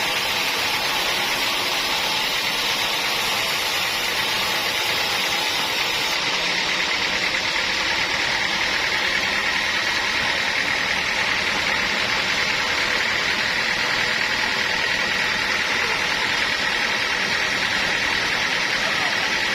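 Sawmill machinery running steadily, a constant mechanical drone with a persistent high whine.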